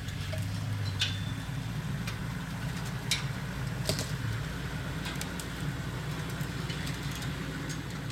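Safari game-drive vehicle's engine running steadily in a low rumble, with a few sharp clicks about one, three and four seconds in.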